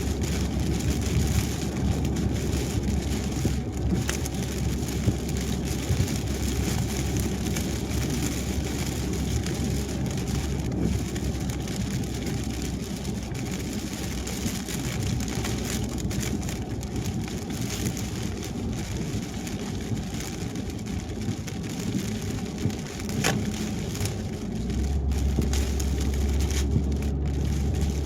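Car driving on a wet highway in the rain: steady tyre and road noise with rain hitting the car, and a low rumble that grows louder near the end.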